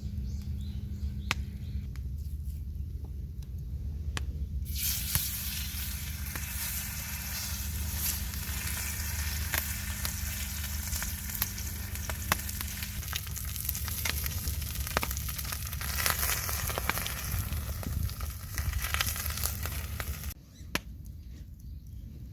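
Food sizzling and spitting in hot oil or in a hot pan: a dense crackling hiss that starts suddenly about five seconds in and cuts off suddenly about twenty seconds in, over a steady low rumble.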